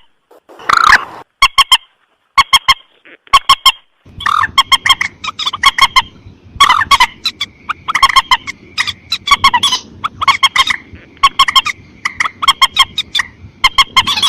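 Recorded lure calls of a mandar sawah, a rail of rice fields: loud, harsh, honking calls in quick repeated series. The calls come in short clusters separated by gaps at first, then about four seconds in they run almost without a break over a faint hiss.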